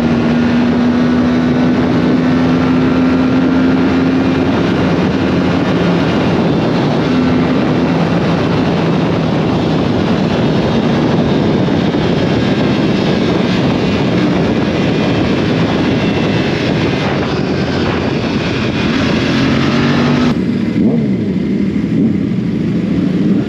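Royal Enfield Continental GT 650's parallel-twin engine running at road speed under heavy wind rush on the rider's camera. The engine note holds fairly steady, then steps lower, and about twenty seconds in the wind rush falls away suddenly while the engine keeps running.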